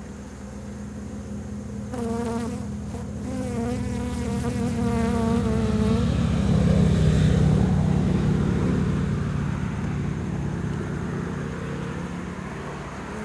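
Honey bees buzzing in a dense, steady low hum around an opened hive; the hum swells in the middle. From about two to six seconds in, a nearer buzz with a wavering pitch rides over it.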